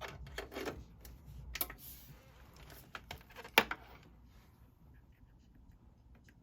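Headphones and their cord being handled: scattered small clicks and rustles, with one sharper click about three and a half seconds in, then fainter fiddling.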